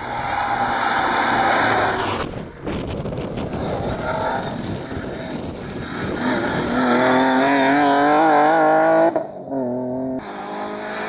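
Rally car accelerating hard, its engine revving up and cut short by quick gear changes, with a brief tyre squeal.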